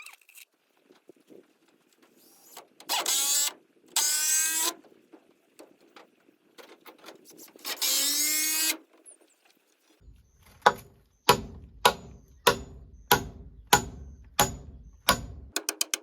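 A power drill runs three times for about a second each, its pitch curving up as it spins. Then a hammer strikes about eight times, roughly one blow every half second or so, each with a short metallic ring, as in nailing roof timber. Rapid even clicking starts just before the end.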